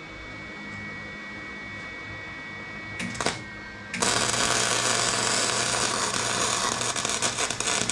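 Wire-feed welder humming, a short click about three seconds in, then the welding arc striking about halfway through and crackling steadily and loudly as it welds.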